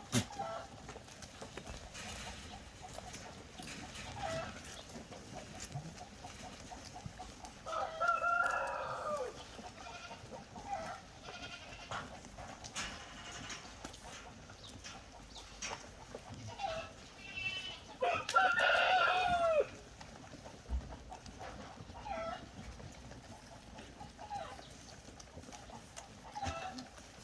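Farm animals calling: two loud, drawn-out calls, each about a second and a half long and falling in pitch at the end, one near a third of the way in and one about two-thirds in, with shorter, fainter calls and small clicks between them.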